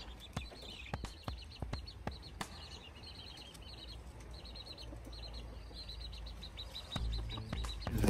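Faint, high chirping of small birds in quick runs of short notes, with a few soft clicks in the first couple of seconds.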